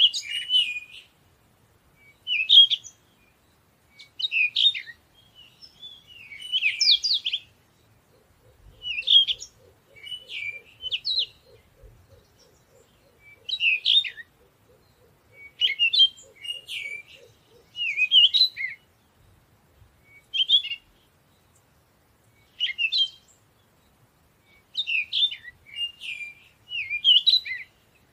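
Birds chirping and singing: short, high chirping phrases repeating every second or two with brief silences between.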